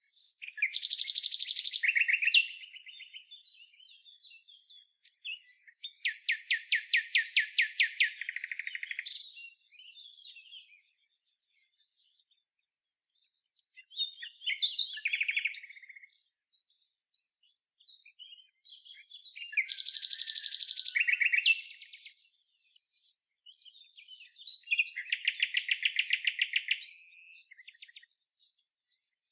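A songbird singing: five loud song phrases of about two to three seconds each, built of rapid trilled notes, separated by pauses filled with quieter twittering.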